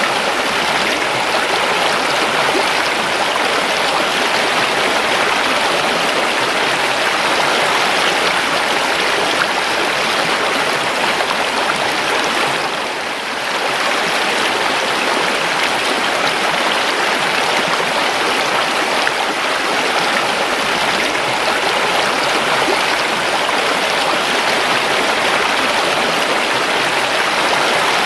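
River water flowing steadily, an even rushing babble that briefly dips about halfway through.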